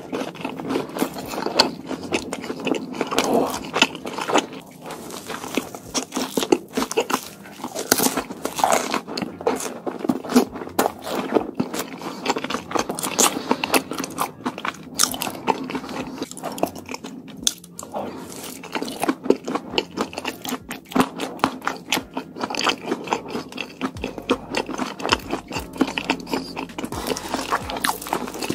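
A man chewing crispy samosa and chickpea chaat close to the microphone, ASMR-style: a dense, continuous run of crunching bites and wet chewing.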